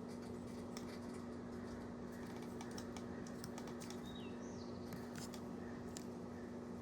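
Over-the-range microwave oven running with a steady electrical hum, while scattered light clicks and crackles come from a smoking Amazon Echo Show being cooked inside. A bird chirps briefly about halfway through.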